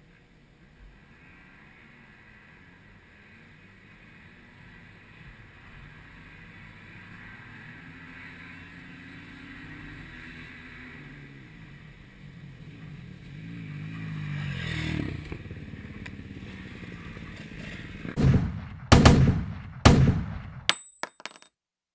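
Dirt bike engines racing toward the listener, growing steadily louder and peaking about fifteen seconds in as they pass, then dropping and fading. Near the end come several loud, sudden clattering blasts, and then the sound cuts off.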